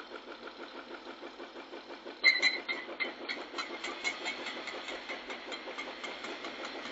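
A machine engine running with an even, rapid pulse. About two seconds in, a sudden loud clatter of sharp ticks starts and keeps repeating at a steady pace.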